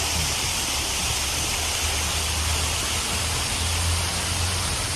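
Street traffic noise: a steady wash of passing vehicles with a constant low engine hum.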